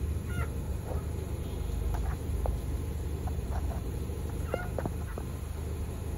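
A few short, scattered bird calls, fowl-like, over a steady low hum.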